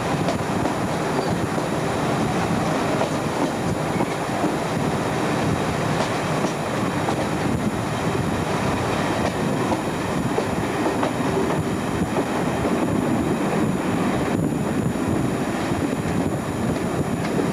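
Passenger train hauled by a Class 47 diesel locomotive running along the track, heard from a coach window: a steady rumble of wheels on rail.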